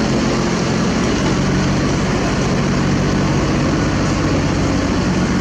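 Heavy diesel engine running at a steady speed, a constant low hum with a dense noisy rumble over it.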